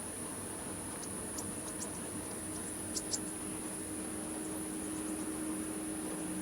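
Steady background hiss and low hum with a constant high-pitched whine, and a couple of faint clicks about three seconds in.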